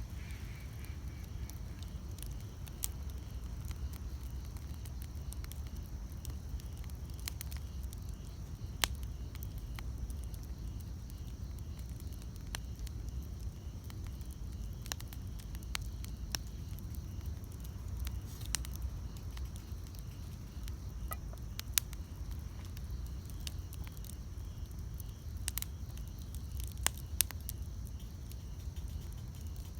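Wood campfire burning with irregular sharp crackling pops scattered over a low steady rumble of the flames.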